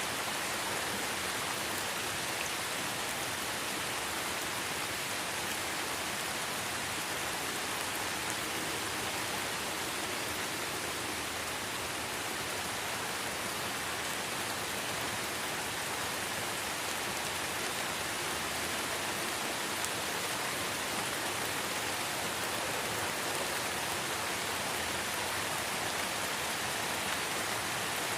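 Steady light rain falling in a forest: an even hiss with faint drops pattering on leaves.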